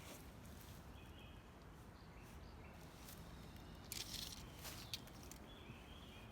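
Near silence: faint outdoor ambience, with a brief burst of rustling or crackling about four seconds in.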